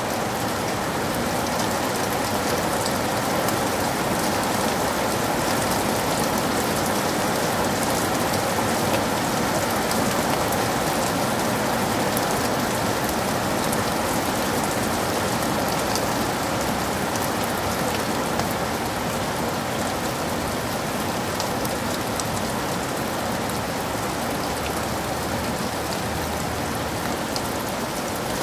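Heavy rain falling steadily in a forest, a dense even downpour with many individual drops pattering close by.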